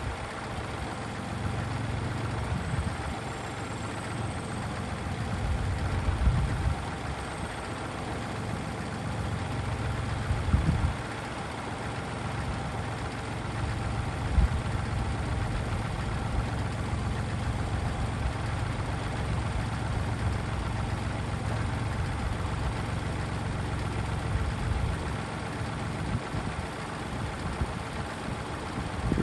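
Kubota tractor's diesel engine running steadily, with a few brief low thumps in the first half.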